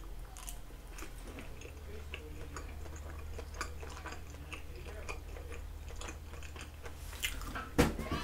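Close-miked chewing of food: a run of small mouth clicks and smacks, with one sharper knock near the end.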